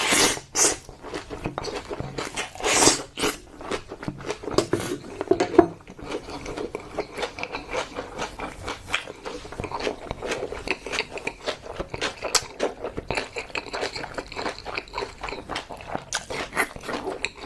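A person chewing and biting food, heard as a steady run of many short clicks and smacks, louder for the first few seconds.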